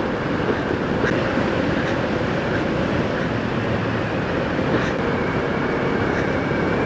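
Motorcycle running at a steady speed, its engine hum mixed with wind and road noise.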